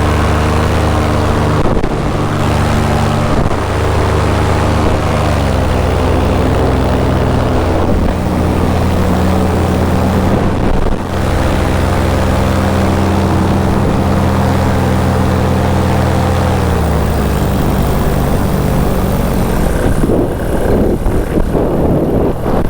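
Paramotor engine and propeller running steadily in flight, its pitch dropping in two steps, about five seconds in and again near seventeen seconds, as the throttle is eased back.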